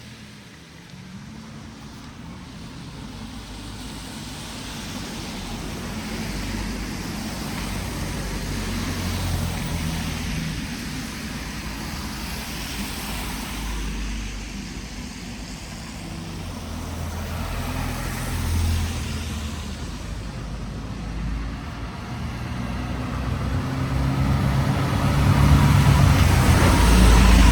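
A road vehicle going by, a low rumble with a noisy hiss that grows louder toward the end.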